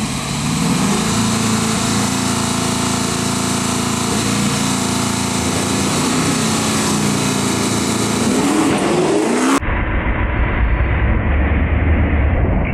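A tuned naturally aspirated 6th-gen Camaro and a Fox-body Mustang running at the start line of a drag race, their engines idling with blips of revving and a rising rev near 9 s. About three-quarters of the way in the sound changes suddenly to a deeper, heavier engine rumble.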